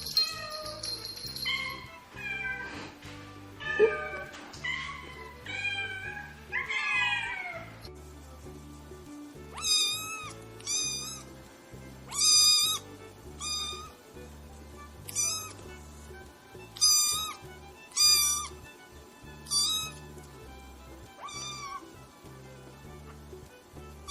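Kitten meowing over and over: first a run of drawn-out meows falling in pitch, then, from about ten seconds in, a string of about ten short high-pitched meows roughly a second apart, over background music.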